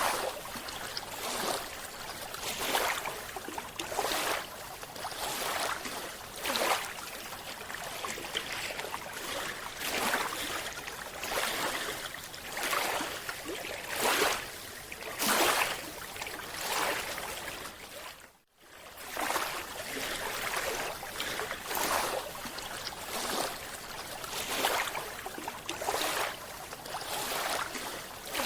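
Scuba diver's exhaled bubbles underwater: repeated bursts of bubbling and rushing noise every second or two over a steady hiss, with a brief dropout to silence about two-thirds of the way through.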